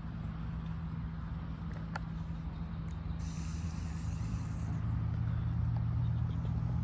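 Steady low engine hum, growing a little louder after about four seconds, with a brief hiss about three seconds in.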